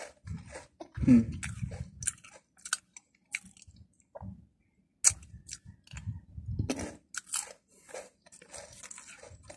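Someone chewing crunchy round potato chips close to the microphone: a run of short, crisp crunches, loudest about a second in, with a brief pause about halfway.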